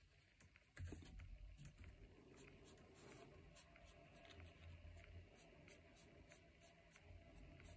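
Faint brushing and dabbing of a watercolour brush on a paper postcard as a clean, damp brush lifts spots of paint away, with a soft bump about a second in.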